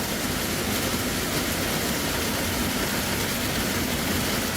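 Hail pelting the boat's roof and deck, a steady dense racket heard from inside the cabin during a heavy hailstorm.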